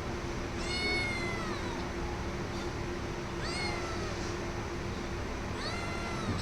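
Domestic cat meowing three times, each meow falling in pitch at its end.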